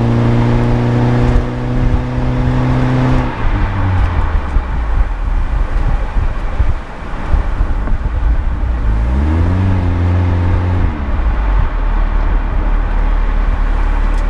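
Toyota Corolla Cross hybrid's 1.8-litre four-cylinder heard through a Rosso Modello DUALIST EX aftermarket muffler, the car accelerating with the engine held at a steady speed. About three seconds in the engine sound drops away, leaving road and wind noise. It rises again briefly around nine seconds in and falls away about two seconds later.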